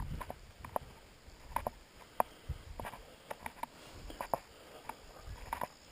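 Scattered drops of rain ticking irregularly, about two or three sharp ticks a second, over a faint hiss.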